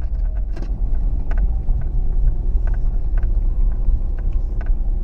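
A steady low rumble with a scattering of short, sharp clicks and ticks.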